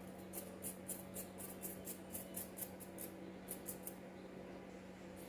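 Quick scratchy rubbing strokes, about four a second, as a moped carburetor jet is scrubbed clean, stopping about four seconds in; a faint steady hum lies underneath.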